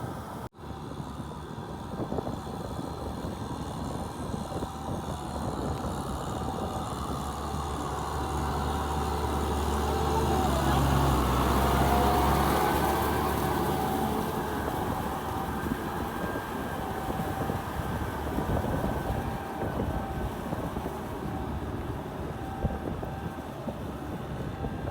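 Tractor engine running steadily under working load. It grows louder to a peak about halfway through, then eases back to its earlier level.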